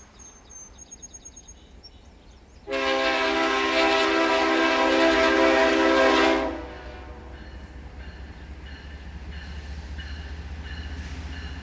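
A diesel locomotive's air horn sounds one long blast of about three and a half seconds, a chord of several tones. After it the low rumble of the approaching locomotive grows steadily louder.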